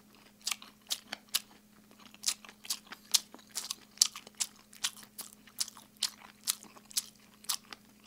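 Close-miked open-mouth chewing of oven-baked chicken: a steady run of sharp, wet lip smacks, about three a second, deliberately exaggerated.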